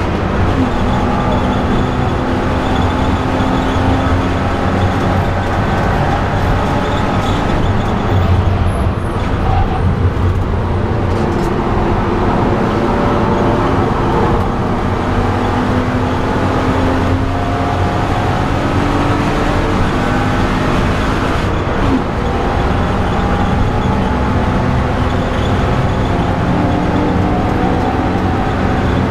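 BMW E90 330i's straight-six engine heard from inside the cabin at speed, its pitch climbing under acceleration and dropping back again and again, over loud tyre and road noise.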